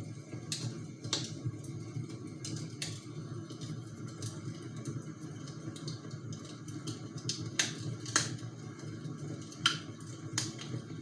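Campfire crackling: irregular sharp pops and snaps of burning wood over a low steady rush.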